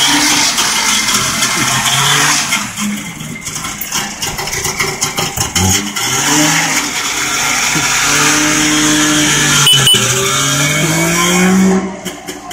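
Barkas van's three-cylinder two-stroke engine running and being revved, its pitch rising and falling, climbing through the last few seconds and then dropping away sharply just before the end.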